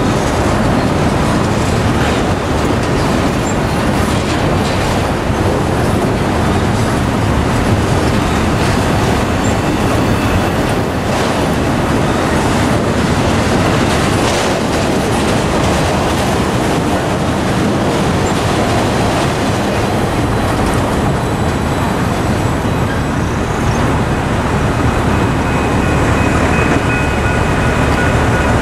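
Freight train of autorack cars rolling past close by: a steady rumble of steel wheels on rail with clickety-clack over the rail joints.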